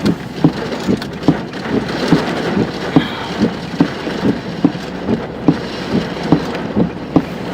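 Steady rhythmic thumping, about two beats a second, inside a vehicle cabin over a continuous noise haze.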